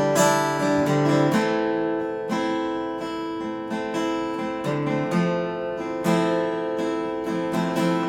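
Acoustic guitar strummed, chords ringing on between strokes with no singing over them.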